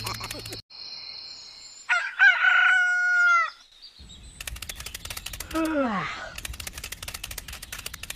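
Rooster crowing once, about two seconds in: a long held call that drops at the end. Later comes a shorter call sliding down in pitch over a fast, even clicking.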